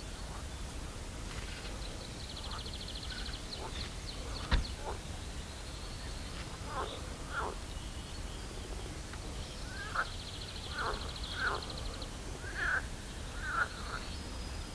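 Birds calling around a pond: a high, rapid trill twice, then a run of short harsh calls, each falling in pitch, over a steady low background hum. A single sharp click stands out about four and a half seconds in.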